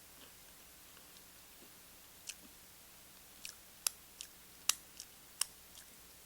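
Chewing tortilla chips close to the microphone: a scattering of short, sharp crunchy clicks, about seven of them, starting about two seconds in.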